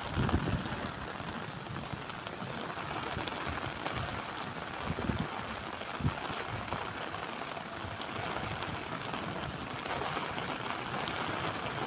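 Steady rain falling, an even hiss, with a few low thumps about half a second in and again around five and six seconds in.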